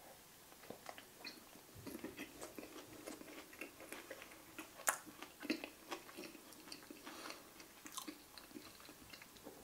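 A person chewing a mouthful of turkey burger in a bun, with faint, irregular wet chewing clicks and smacks.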